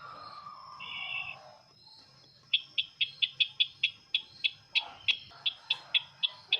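Bird lure call of the sisintar ladang: a short trilled note, then a fast run of sharp chips, about four to five a second, over a faint steady high insect-like tone.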